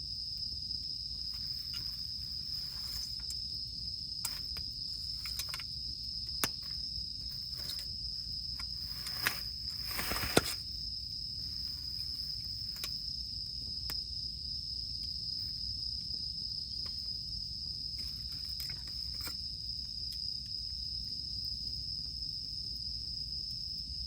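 Campfire crackling with scattered sharp pops, the loudest a short cluster about ten seconds in, under a steady high drone of cicadas that does not let up.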